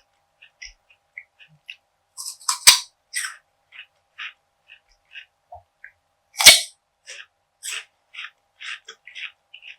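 Crunchy food bitten and chewed: two loud crunching bites, about three and six seconds in, each followed by a run of crisp crackling chews.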